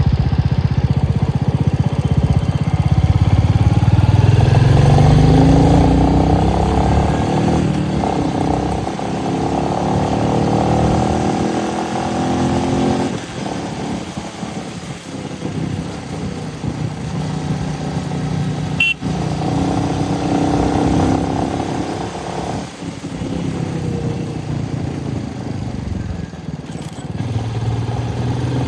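Royal Enfield Meteor's single-cylinder engine under way, its pitch rising as it accelerates and dropping back several times between stretches of steady cruising, with road and wind noise.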